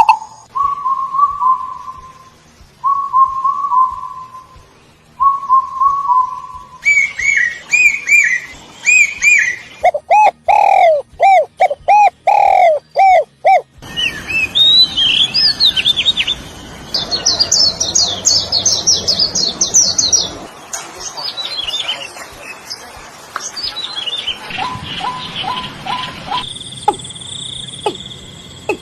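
Birds calling and singing: a run of different whistled phrases, chirps and trills that change abruptly every few seconds, with short repeated whistles at first, then fast rising-and-falling chirps and high rapid trills.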